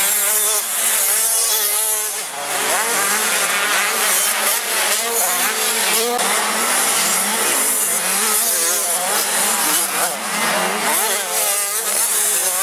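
Several 85 cc two-stroke motocross bikes racing together, their engines revving hard, the pitch repeatedly climbing and dropping as the riders accelerate, shift and back off.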